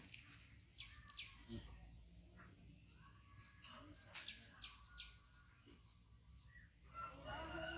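Small birds chirping repeatedly, short high chirps about twice a second, faint over a low background rumble. A louder voice-like sound begins near the end.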